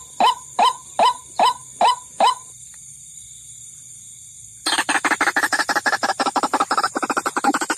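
White-breasted waterhen (ruak-ruak) calling, a short call repeated about two and a half times a second, which stops about two and a half seconds in. After a pause of about two seconds it breaks into a fast, dense chattering run. A steady high whine sits behind the calls.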